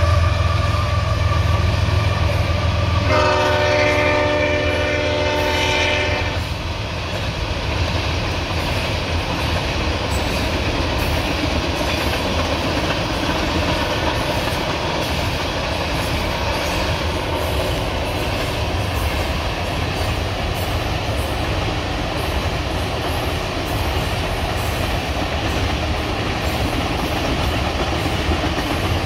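Union Pacific diesel locomotives passing close by with a deep engine rumble, and a multi-note locomotive horn sounding one long blast from about three seconds in to about six. Then tank cars roll past steadily, their wheels clicking over the rail joints.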